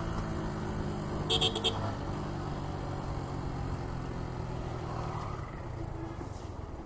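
Suzuki Gixxer 150 motorcycle's single-cylinder engine running at low speed with road noise, slowly fading. A short high-pitched beeping cuts in about a second in.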